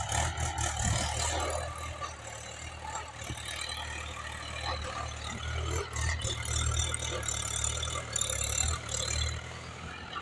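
Mahindra Bhoomiputra 415 tractor's diesel engine running steadily at low speed, a low hum with a noisy hiss above it.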